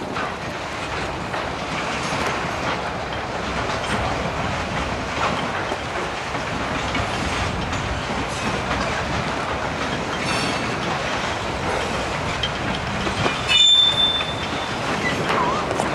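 Railroad cars rolling slowly through a rail yard, wheels clicking and rumbling over the track. Near the end a brief, sharp, high-pitched squeal is the loudest sound.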